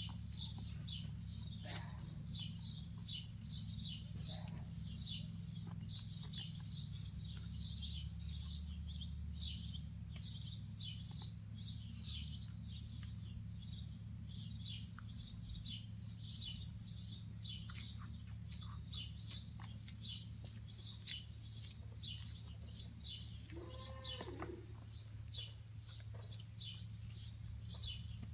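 Small birds chirping steadily, short high calls about two or three a second without a break, over a low steady hum. Near the end a brief, lower wavering call sounds once.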